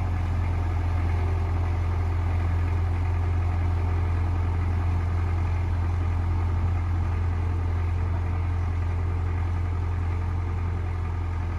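Four-cylinder diesel engine of a 1975 Belarus MTZ-52 Super tractor running steadily with a deep, even hum while it pulls a heavy ballast roller.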